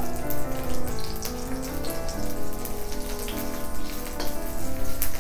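Garlic sizzling and crackling in hot oil in a wok as it is stirred with a spatula, under background music with a slow melody.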